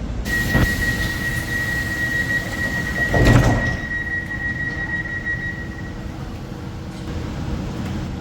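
Train door warning tone: one steady high beep held for about five and a half seconds, with a knock near the start and a heavier thud about three seconds in as the doors slide shut.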